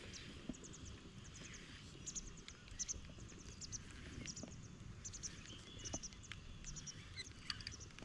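Faint high bird chirps, short notes in little clusters repeated every second or so, over a low outdoor background with a few soft clicks.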